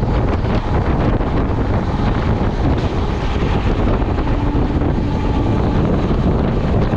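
Moving express passenger train heard from the side of a coach: steady wind rushing over the microphone, over the low rumble of the wheels running on the track.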